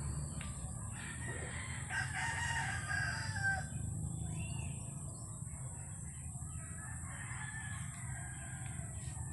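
A rooster crowing, with a second, fainter crow near the end, over a steady low rumble.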